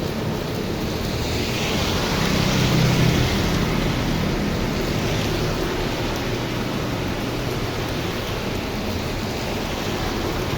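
Heavy rain falling in strong wind, a steady hiss that swells briefly about two to three seconds in.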